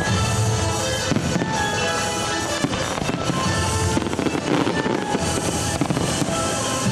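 Aerial fireworks bursting in a rapid run of bangs and crackles, with music playing continuously underneath.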